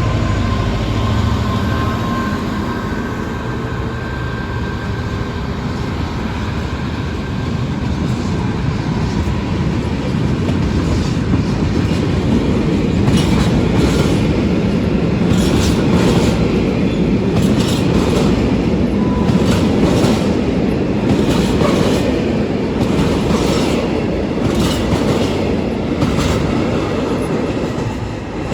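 DB Class 66 diesel-electric locomotive with its EMD two-stroke engine pulling a freight train away, then the wagons rolling past: a loud rumble with repeated sharp clicks of wheels over the rail joints from about ten seconds in.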